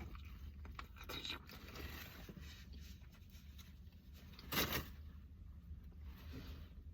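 Quiet eating and handling sounds: faint rustles and mouth noises, with one louder, brief rustling scrape about four and a half seconds in.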